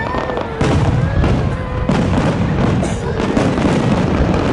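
Fireworks display: aerial shells bursting one after another in a dense barrage of booms and crackles, with fresh loud bursts about half a second and two seconds in.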